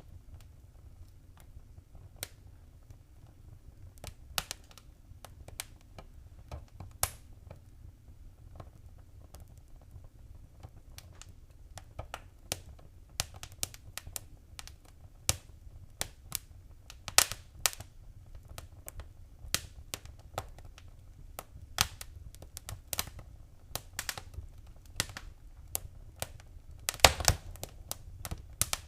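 Wood fire in a fireplace crackling: irregular sharp pops and snaps over a low steady rumble, with a quick cluster of louder pops near the end.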